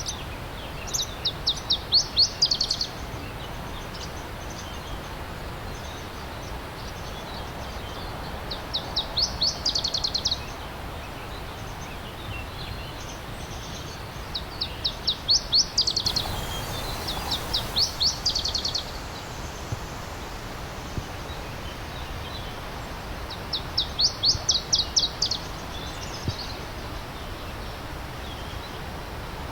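Stream water running steadily, with a songbird singing about six short trills of rapidly repeated high notes, each about two seconds long, a few seconds apart.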